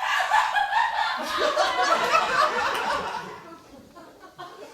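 Laughter, loudest over the first three seconds and then dying down.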